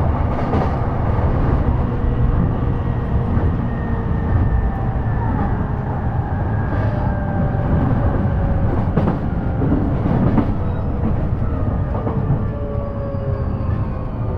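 Running noise of an E233 series electric commuter train heard from inside a carriage: a steady low rumble of wheels on rail, with a few single knocks from the track. Faint whining tones from the traction motors glide slowly down in pitch.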